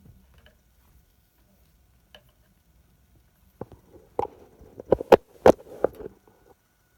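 A rapid series of about ten sharp clicks and knocks of hard objects, starting a little past the middle and loudest toward its end. A faint steady high whine comes in near the end.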